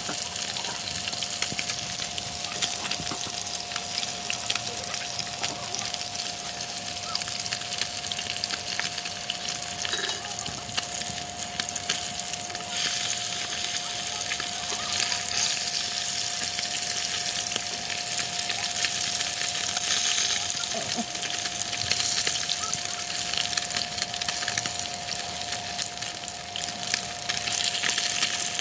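Food frying in hot oil: a steady crackling sizzle, with a thin steady tone running underneath.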